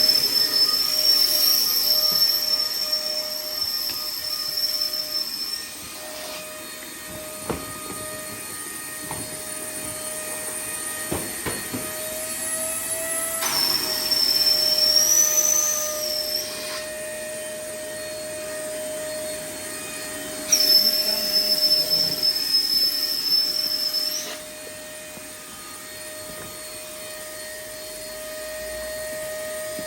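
Electric air pump running in reverse, sucking the air out of an inflatable PVC boat's tubes: a steady motor hum with a high whine on top. The whine drops out after about five seconds and comes back twice for a few seconds at a time.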